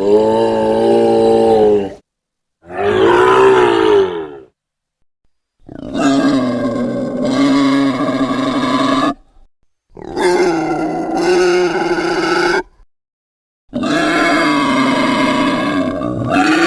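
Monster bat sounds: five separate drawn-out pitched calls, each about two to three and a half seconds long, with dead silence between them.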